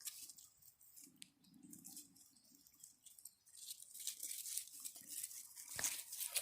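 Border collie puppies scuffling and chewing at close range, a faint irregular crackly rustling, with a sharp click near the end.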